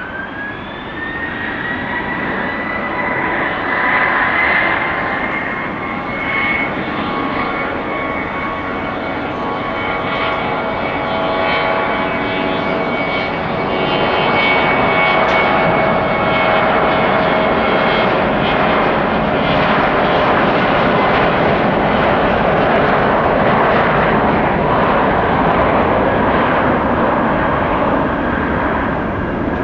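Jet airliner engines: a whine of several tones rises over the first couple of seconds, then holds steady while the overall engine noise grows louder and stays loud through the second half.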